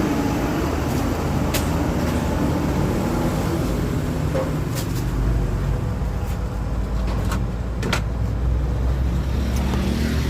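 A motor vehicle engine runs close by amid road traffic, its low hum growing stronger about halfway through, with a few sharp clicks and knocks.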